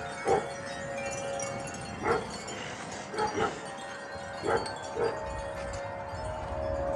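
Wind chimes ringing in a gust of wind: several long held tones, with fresh strikes roughly every second.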